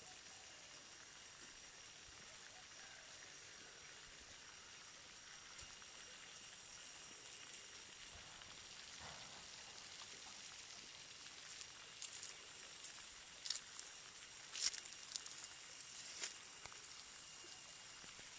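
Faint outdoor ambience: a steady high hiss carrying a few thin, steady high tones, with scattered short sharp ticks and clicks from about twelve seconds in.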